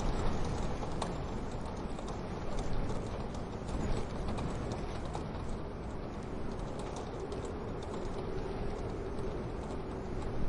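Wood fire crackling in a wood-burning stove: irregular small pops and snaps over a steady low rushing background.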